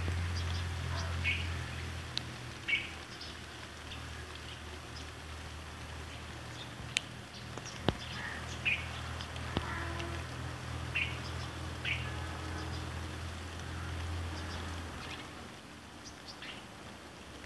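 Small birds chirping in short, scattered calls over a low steady hum that fades out about fifteen seconds in, with a couple of sharp clicks around the middle.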